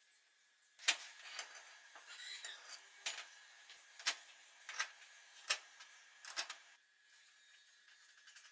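Hard objects being handled: about seven sharp knocks and clicks spread over six seconds, with a short scraping rustle about two seconds in.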